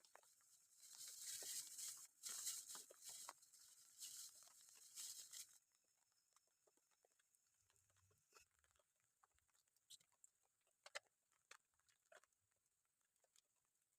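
Faint patter of rain and dripping water. A pulsing high hiss runs through the first half and stops suddenly, leaving scattered soft drips.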